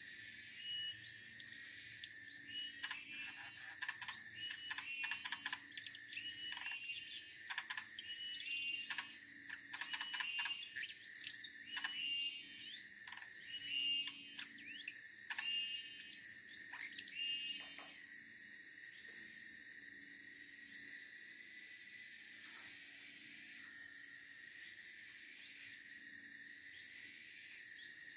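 Siberian blue robin calling: many short, thin rising chirps in quick succession, thickest in the first two-thirds and sparser after. A steady high hum runs underneath.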